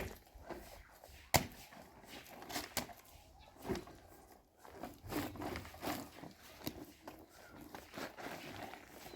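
A few sharp knocks at irregular moments, the loudest about a second and a half in, with softer handling clatter between them.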